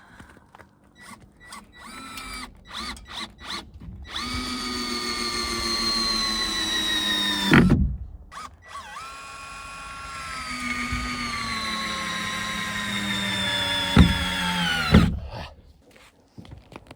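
Power drill driving screws into wood. A few short trigger blips come first, then two long runs of several seconds each. The motor's whine sags in pitch as the screw bites, and each run stops abruptly.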